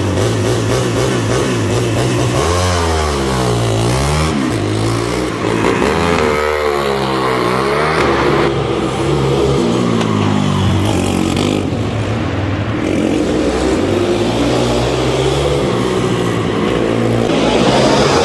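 Pit bike engines revving on a track, their pitch rising and falling repeatedly as the bikes accelerate and slow, with more than one bike heard at once.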